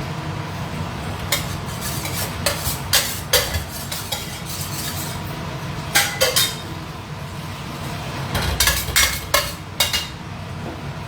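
Kitchen utensils and cookware being handled, about a dozen sharp metallic clinks and knocks in three clusters, over a steady low hum.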